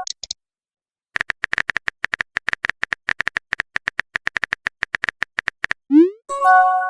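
Phone keyboard typing sound effect: a rapid, even run of short taps for about four and a half seconds, then a quick rising swoop and a short chime-like tone near the end, the sound of a chat message being sent.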